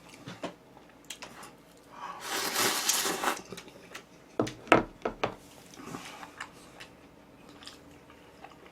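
Wang Ttukkeong cup ramen noodles slurped in one long pull of about a second, followed by a few sharp clicks of eating utensils against the cup or dishes.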